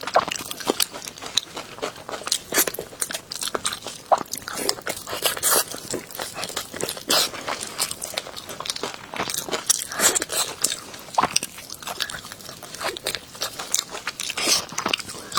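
Close-miked chewing and biting of crunchy beef knee cartilage: a run of sharp, irregular crunches.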